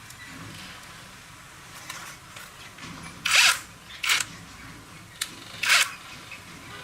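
Handheld power tool run in three short bursts, each well under a second, with a sharp click between the second and third.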